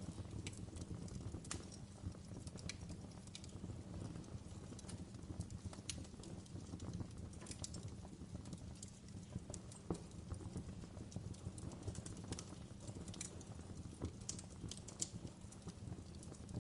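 Wood fire crackling: a steady low rumble of burning logs with irregular sharp pops and snaps scattered throughout.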